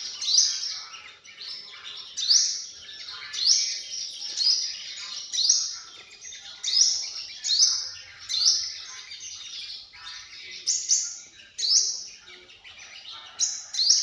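Sunbird calling: a sharp, rising high note repeated about once a second, with softer twittering between the notes.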